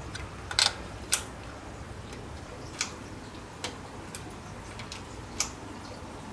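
About six sharp clicks and light taps at uneven intervals, the loudest two close together about half a second and a second in. These are tools and small fittings being handled while a bicycle wheel is unbolted.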